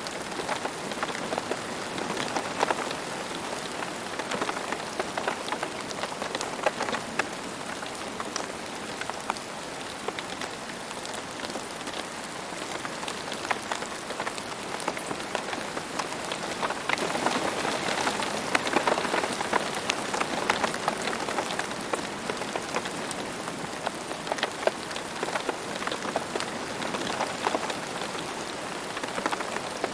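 Steady rain falling on a hard surface, many single drops spattering within the constant patter. The rain swells a little about halfway through.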